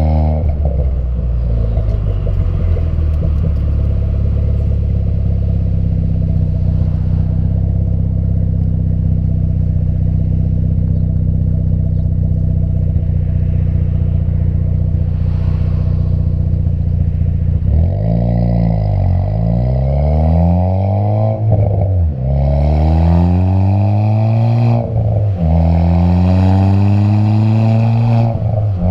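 Ford Fiesta ST's turbocharged engine heard through an MBRP 3-inch aftermarket exhaust. It holds a steady drone while cruising, then accelerates hard through several gear changes in the last ten seconds, the pitch climbing and dropping back at each shift.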